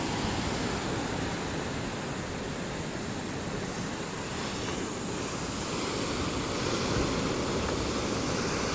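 Steady rushing noise of wind and distant ocean surf, swelling slightly about two-thirds of the way through.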